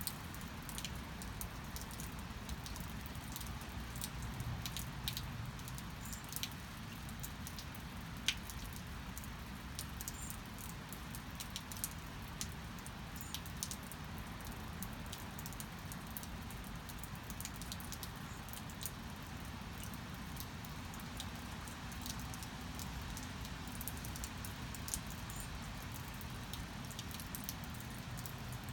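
Steady rain, with many scattered raindrops and drips ticking sharply over an even hiss and a low rumble.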